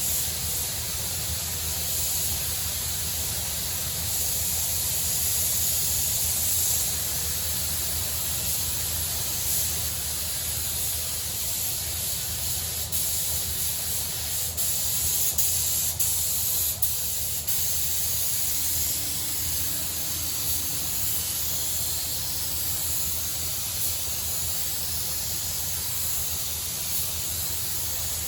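Compressed-air paint spray gun hissing steadily as it lays down the first coat of paint on a car body panel, with a few faint ticks around the middle.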